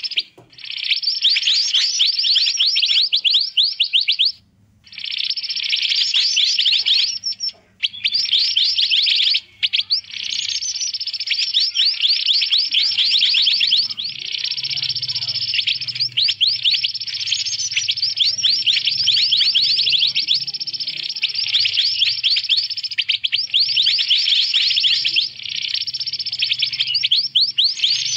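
Mantenan birds chattering noisily: fast, high chirps run together into a continuous busy stream. It breaks off briefly three times in the first ten seconds.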